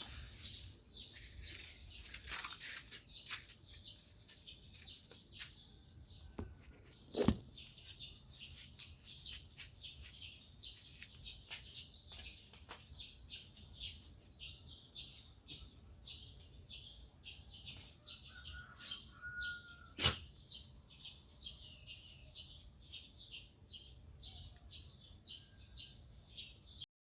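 Outdoor ambience of birds chirping in quick, short calls over a steady high-pitched insect trill, with two sharp clicks about a third of the way in and again near three-quarters.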